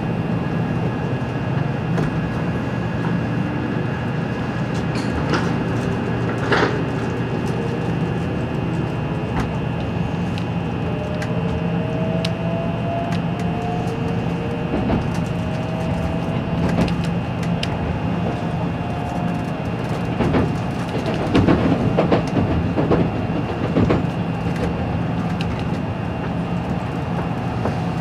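Cabin sound of an N700 series Shinkansen motor car at speed: a steady rumble and hum of the running train, with a faint whine from the traction motors climbing in pitch as the train accelerates. A few sharp knocks come about three quarters of the way through.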